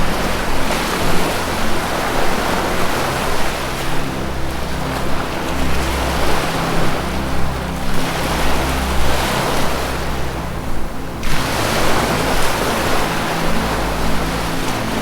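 Ocean waves washing in, surging and easing about every three to four seconds. Slow, low held notes of ambient 432 Hz music play beneath.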